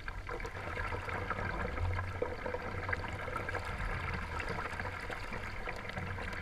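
Water lapping and trickling around a kayak, with small scattered clicks over a steady low rumble.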